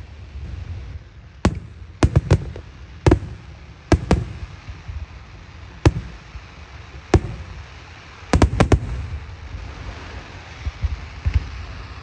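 Aerial fireworks shells bursting in a display: a run of sharp bangs at uneven intervals, several in quick succession about two seconds in and a tight cluster of three about eight and a half seconds in, over a continuous low rumble. Near the end the bangs thin to a few fainter pops.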